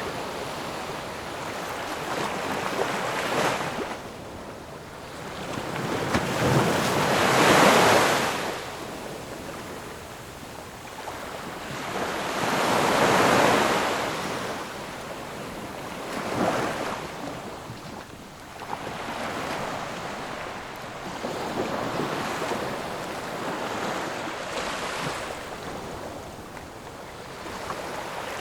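Ocean waves breaking and washing up on shore, a continuous surf hiss that swells every few seconds, the biggest waves near 8 and 13 seconds in.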